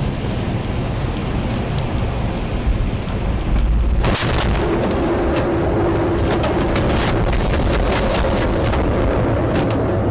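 Heavy rain with a steady low rumble; about four seconds in it turns sharper, with a dense patter of drops and a steady hum.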